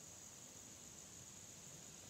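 Near silence, with a faint steady high-pitched insect drone.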